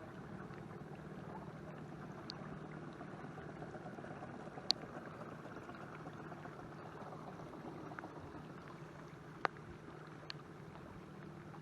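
Battery-powered electric motor pushing a canoe, running with a steady low hum over a soft wash of water noise. A few sharp ticks sound about five and nine seconds in.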